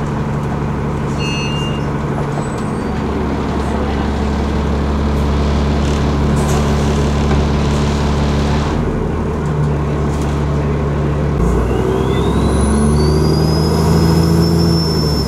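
Alexander Dennis ALX400 double-decker bus engine running, heard from inside the bus. About three-quarters of the way in, the turbocharger's whistle starts, rises in pitch and holds high as the engine pulls.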